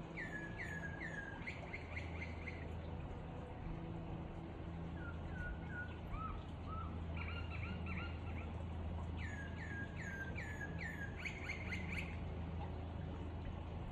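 Songbird singing: repeated phrases of short, quick, falling chirps, four to six to a phrase, over a steady low hum.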